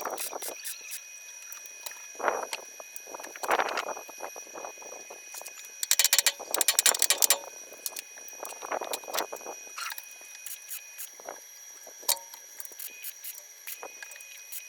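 Workshop work noises from fitting parts on a truck cab: scattered clicks and knocks, with a rapid run of loud sharp clicks lasting about a second and a half from about six seconds in, over a faint steady high tone.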